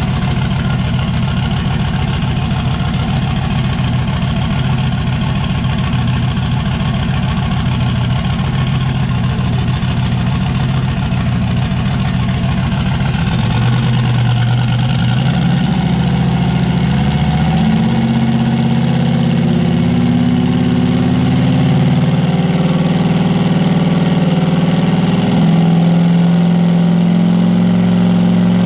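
Turbocharged LS V8 engine in an S10 pickup, idling with a lumpy, pulsing beat. About halfway through its speed steps up and holds at a higher idle, then settles a little lower near the end.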